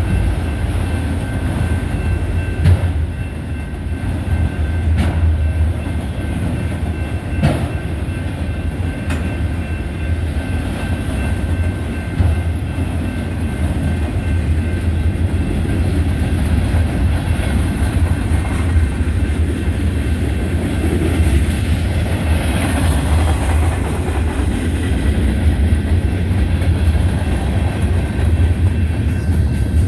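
Freight train cars rolling past with a steady low rumble, their wheels clicking over rail joints every few seconds.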